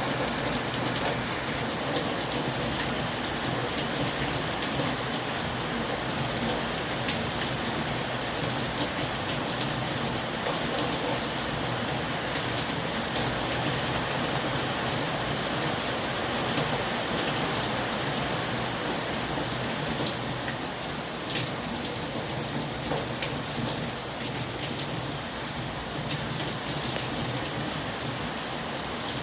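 Heavy rain falling steadily, with many sharp individual drops tapping on a surface.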